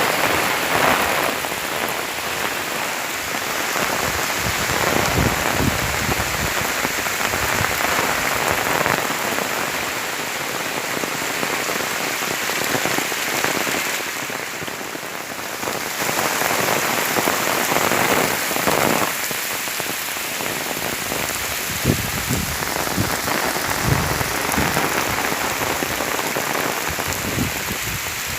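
Wind-driven rain pouring steadily, the downpour swelling and easing in waves every few seconds.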